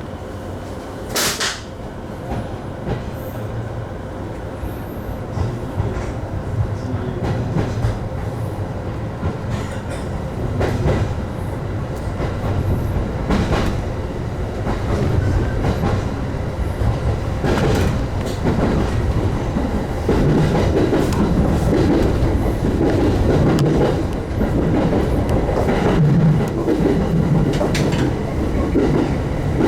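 Electric commuter train pulling out of a station and gathering speed, heard from on board: a steady running rumble that grows louder, with wheels clacking over rail joints and a sharp click about a second in.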